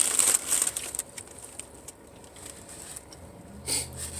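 Food wrapper crinkling for about the first second, then a quieter stretch. Near the end a brief rush of noise comes and a steady low hum sets in as the car is switched on.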